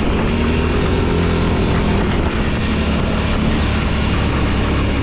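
Four-wheeler (ATV) engine running steadily under way on a trail ride, its pitch holding fairly even.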